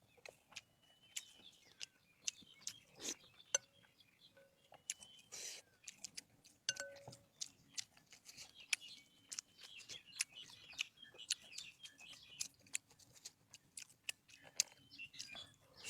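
Close-miked eating: irregular crisp clicks and crunches of chewing. Small birds chirp faintly in the background.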